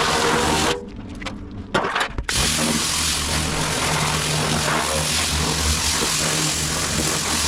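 A motor-driven cleaning tool running steadily with a low hum and a broad hiss. It cuts out under a second in, with a few clicks in the gap, and starts again after about a second and a half.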